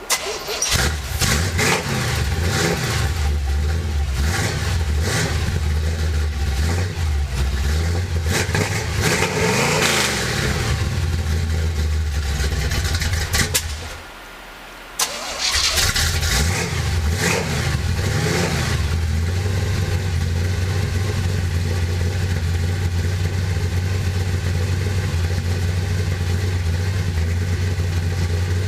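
A 412-cubic-inch stroker V8 in a 1977 Chevy K10 pickup cold-starting: it fires, is revved up and down several times, then cuts out about 13 seconds in. It is restarted a second and a half later, revved again, and settles into a steady idle.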